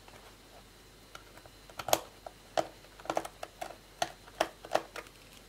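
Irregular small plastic clicks and taps from an HP 625 laptop's case parts being handled and worked open, starting about two seconds in and coming a dozen or so times, unevenly spaced.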